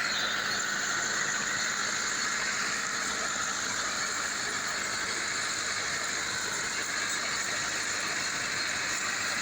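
Tractor engine running steadily while the tractor is driven, a continuous even noise that does not change.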